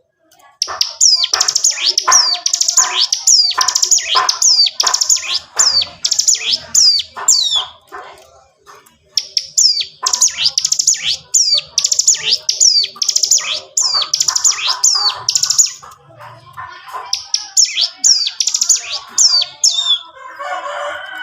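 Ciblek gunung singing hard in long, fast rattling runs of high, down-slurred notes (the drilling 'ngebren' song), with brief pauses about eight and sixteen seconds in.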